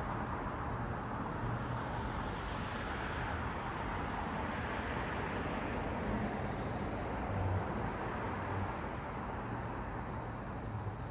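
Night-time city road traffic: a steady wash of cars and tyre noise on the street, with one vehicle passing closer and swelling briefly about seven seconds in.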